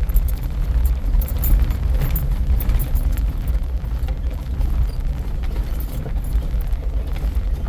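Four-wheel-drive vehicle crawling over a rough off-road trail in low range: a steady low engine and drivetrain rumble, with scattered light rattling and clinking from the cabin.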